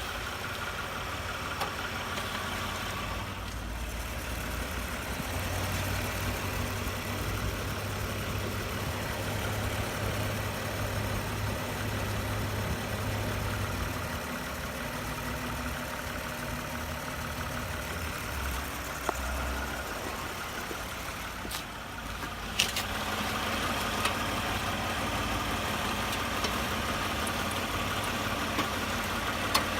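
Toyota Highlander running, a steady engine and road drone with a few sharp knocks scattered through it. The knocks are the suspension knock that persists despite new genuine struts and strut mount bearings.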